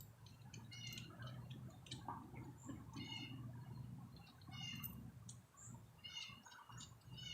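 Songbirds chirping, a string of short repeated call phrases, over a faint low rumble.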